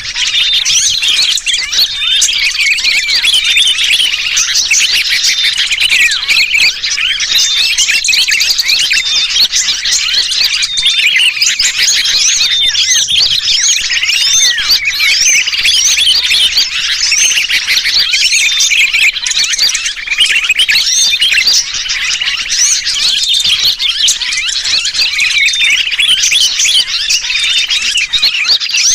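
Bird-lure recording: a dense, unbroken chorus of many small birds chirping and chattering over one another, mixed with the distressed calls of a trapped sooty-headed bulbul. A short, steady whistle-like note recurs through it.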